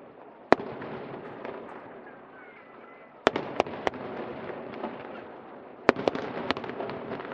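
Aerial fireworks shells bursting: a single sharp bang, then a quick run of three, then another cluster of bangs near the end, over a steady crowd murmur.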